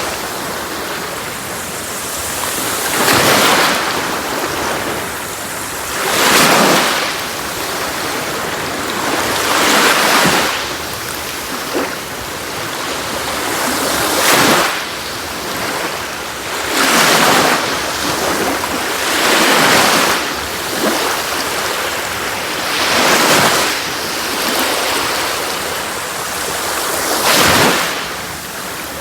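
Sea waves breaking on a beach: a wave surges in every three to four seconds over a steady wash of surf.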